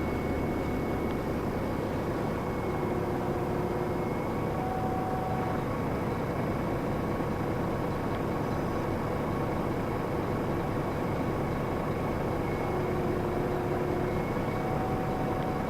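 Scania Citywide LE city bus (CK320UB chassis, nine-litre five-cylinder diesel) under way: steady engine and road noise. Faint whining tones come and go about three seconds in and again near the end.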